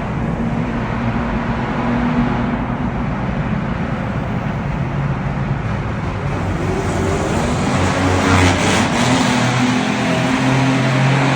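Ford Mustang exhaust running while driving, a steady engine drone under road noise. From about seven seconds in it grows louder and more raspy, with the engine note shifting, and is loudest around eight to nine seconds.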